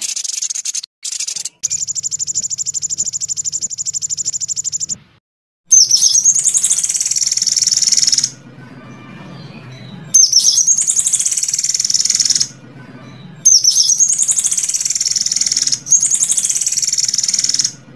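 Songbird song from a bird-song teaching track for competition birds: a fast, even trill of high notes, then repeated loud bouts of rapid, high chattering calls with sweeping notes, each a couple of seconds long and cut off abruptly.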